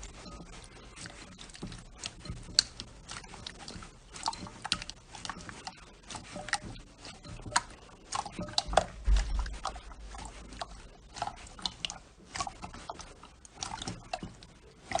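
Slime being squeezed and kneaded by hand, giving a dense, irregular run of small wet clicks and pops, with a few louder pops a little past the middle.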